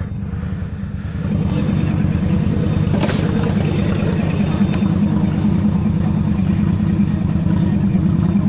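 Motorcycle engine running steadily at a standstill, a low drone with rapid firing pulses that steps up in level about a second in and then holds.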